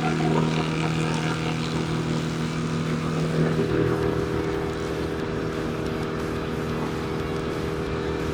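Engine of the tree crew's equipment, a chainsaw or the tree shredder, running steadily at constant speed, its pitch shifting slightly about three and a half seconds in.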